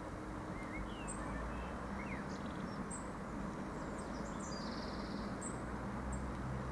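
Small birds chirping in short high calls over a steady low outdoor rumble. Under it runs the faint low hum of an approaching Irish Rail 22000 class diesel multiple unit, growing slightly stronger near the end.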